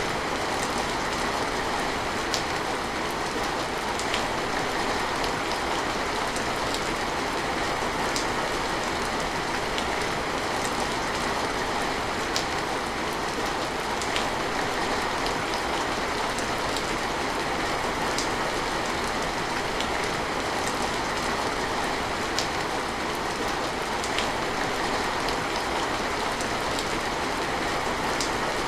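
Steady rain falling, an even hiss with single louder drops standing out every couple of seconds.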